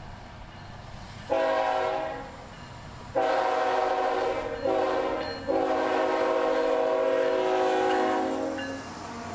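Multi-chime air horn of a CSX freight locomotive blowing a series of blasts in the grade-crossing pattern. A first blast of about a second is followed after a short gap by a long blast, a short one, and a final long blast held for about three seconds.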